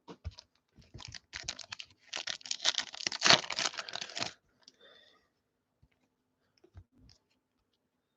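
Trading cards being handled: a few sharp clicks, then about two seconds of dense crackly clicking as cards are slid and flicked through by hand, then a couple of faint ticks.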